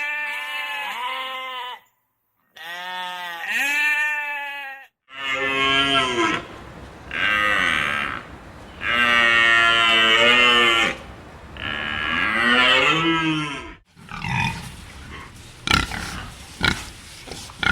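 Farm animals calling in turn. First come two wavering bleats, then a cow mooing in four long calls, and from about three quarters of the way in, a run of short sharp grunts.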